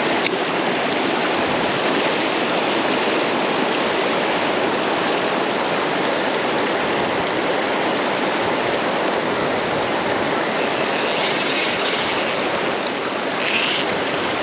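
Steady rush of river water, a continuous even hiss. Near the end a brief, faint, higher-pitched whirring sits over it.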